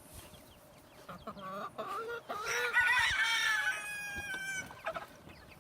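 Chickens clucking, with a rooster crowing once: a loud, drawn-out call of about two seconds in the middle.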